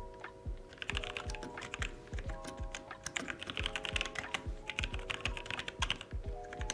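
Computer keyboard typing in quick runs of keystrokes, from about a second in until near the end, over background music with a steady beat and held chords.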